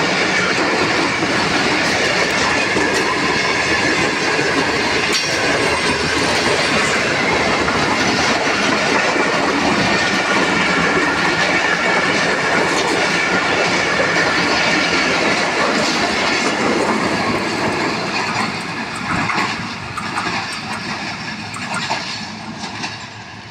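Passenger train coaches rolling past at speed: a steady, loud rumble and clatter of wheels on rails with a high ringing tone. In the last few seconds the noise fades as the end of the train passes and moves away, leaving separate clacks of wheels over rail joints.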